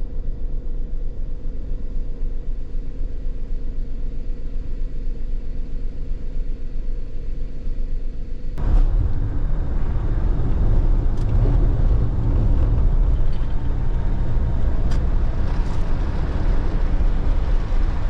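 A car running along a road, with a steady low engine hum and road noise. About eight and a half seconds in, the noise gets suddenly louder and fuller, and it stays that way.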